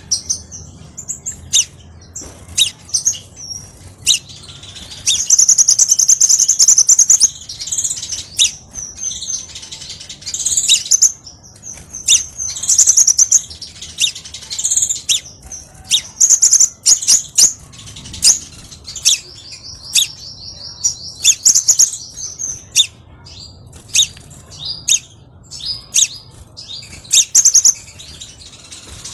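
Crimson sunbird singing actively: rapid high-pitched trills and sharp chirps, repeated in short bursts with brief gaps between them.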